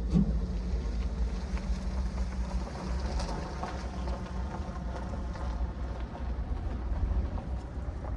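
Steady low rumble of a vehicle running, with a low engine hum.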